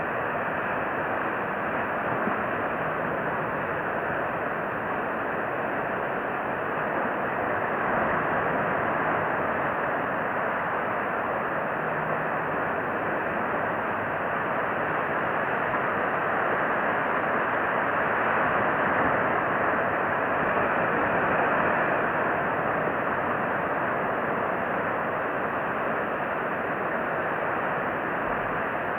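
Steady rushing noise, swelling gently now and then, with no distinct calls or clicks.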